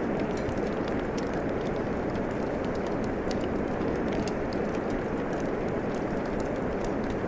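Steady hiss of rain mixed with a wood fire crackling, with many small sharp pops scattered throughout.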